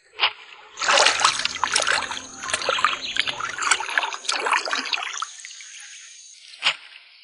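Water splashing and trickling for a few seconds, with a sharp click just before it and another near the end.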